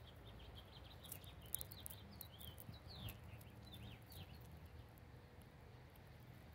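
Small birds chirping faintly: a quick run of short high chirps and downward-sliding notes over the first four seconds, with a few sharp clicks among them, then fading away.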